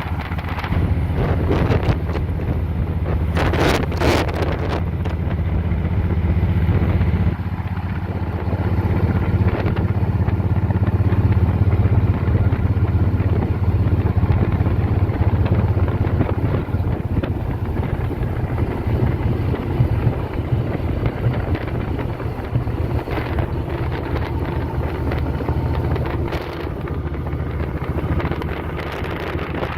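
Motorcycle engine running steadily while riding, with wind buffeting the microphone and a brief stronger gust about four seconds in.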